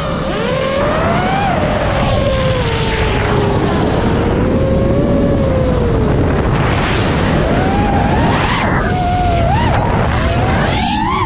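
FPV racing quadcopter's brushless motors and propellers whining, their pitch sliding up and down as the throttle changes, over a steady rush of prop wash and wind.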